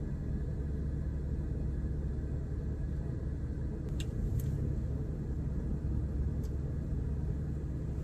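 Steady low rumble of a car idling, heard from inside the cabin, with a few faint light clicks about four seconds in and once more a couple of seconds later.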